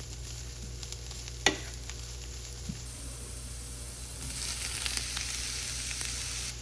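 Carrots, cabbage and onions sizzling as they stir-fry in oil in a pan, with a single sharp click about a second and a half in. The sizzling gets louder about two-thirds of the way through.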